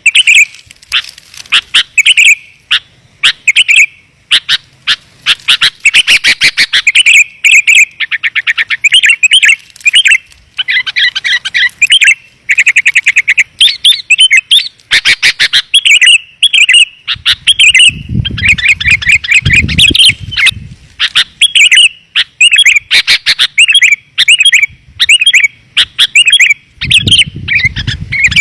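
Sooty-headed bulbul (kutilang) calling in a dense, fast run of clear chirps and short warbled phrases, the kind of call used as a lure to draw in wild bulbuls. A low rumble sits under the calls about two-thirds of the way through and again near the end.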